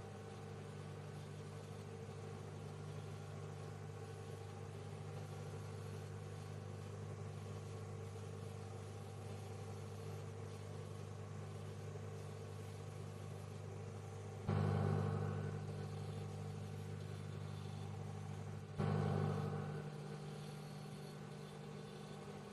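Microwave oven running with a steady electrical hum. Twice, about two thirds of the way in and again about four seconds later, it suddenly gets louder and then eases back over a second or so.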